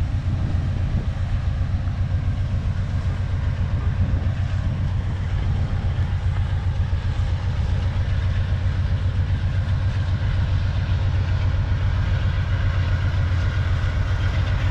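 Amtrak passenger cars rolling past at speed: a steady, loud rumble of wheels on rail, with a faint high ringing from the wheels over the top.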